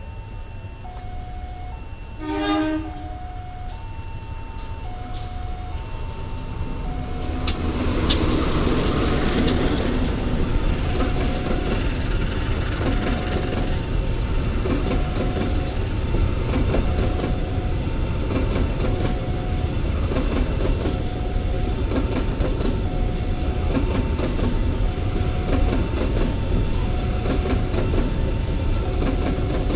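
Level-crossing warning alarm repeating an alternating two-tone signal, with a brief train horn blast about two seconds in. From about seven seconds in a freight train of empty KKBW coal hopper wagons rolls through the crossing, its wheels rumbling and clattering over the rail joints.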